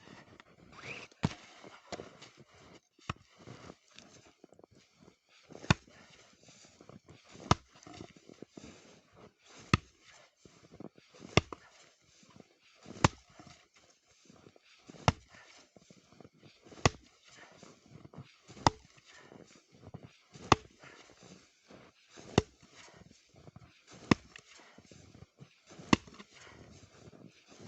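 Axe chopping wood: sharp, evenly spaced strikes, about one every two seconds, with lighter knocks and rustling in between.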